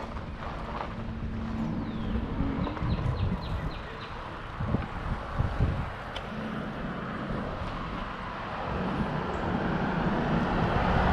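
Electric bike riding off: steady wind noise on a bike-mounted camera's microphone over a low rumble of tyres on pavement, swelling toward the end. A short quick run of high ticks about three seconds in.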